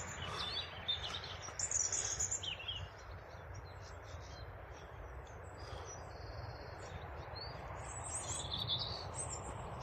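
Small songbirds chirping and trilling in short phrases over a steady low rumble of train noise that all but drowns them out.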